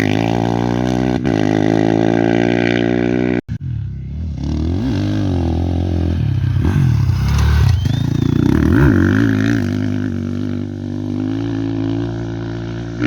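Off-road race motorcycle engines running hard as bikes pass by at speed, the engine pitch sweeping up and then dropping as each one goes past, several times. The sound cuts out for an instant about three and a half seconds in.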